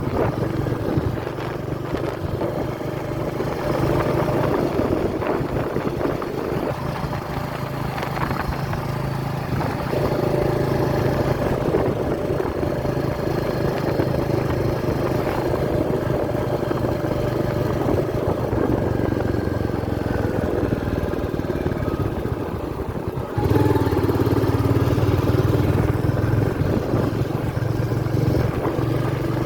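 Royal Enfield Meteor 350's single-cylinder engine running steadily on the move. About 23 seconds in, the sound jumps suddenly louder and changes in tone.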